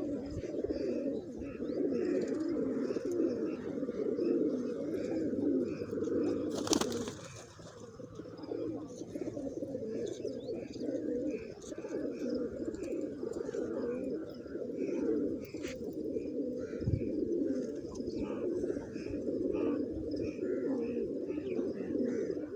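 A flock of domestic pigeons cooing together in their coop, their calls overlapping into a continuous low cooing, with lighter chirps above it and a single sharp click about seven seconds in.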